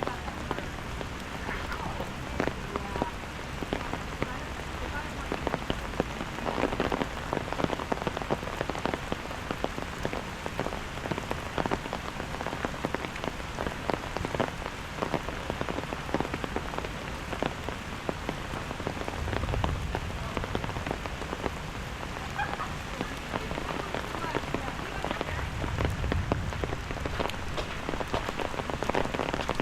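Steady rain falling and pattering on hard surfaces, with many individual drop hits. A low rumble swells briefly twice, about two-thirds of the way through and again near the end.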